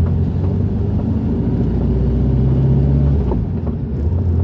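Volkswagen Fusca (Beetle) air-cooled flat-four engine running as the car drives, heard from inside the cabin as a steady low rumble. About three seconds in the engine note shifts and the rumble dips for about a second before coming back.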